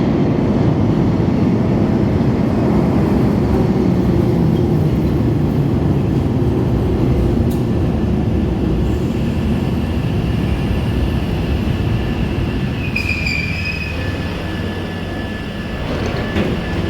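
A London Underground Bakerloo line 1972 Stock train pulling into the platform: a loud, dense rumble that starts abruptly and slowly eases as the train slows. About 13 seconds in there is a short high wheel or brake squeal, followed by a thin steady whine.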